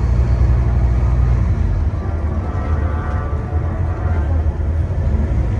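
Scania N230UD OmniCity double-deck bus's five-cylinder diesel engine running under way, heard from onboard. The low engine note changes about a second and a half in, as the bus changes gear or speed.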